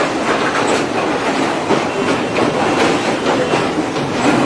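Passenger train running on the rails: a steady noise of the moving train, with the wheels clattering over the track.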